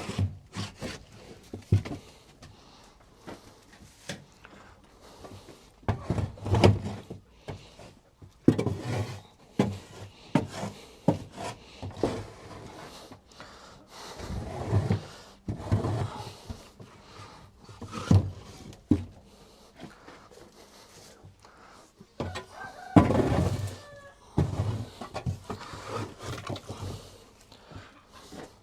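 Mucking out a rabbit hutch with a shovel: irregular scrapes and knocks of the shovel against the hutch's wood as old bedding is scooped out.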